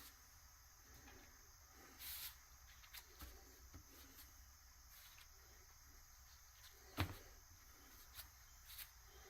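Near silence with scattered faint clicks and taps, and one sharper click about seven seconds in.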